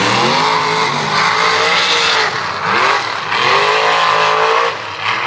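Mega mud truck engine revving hard in about three surges, its pitch climbing and falling back each time, with a loud rushing hiss over it.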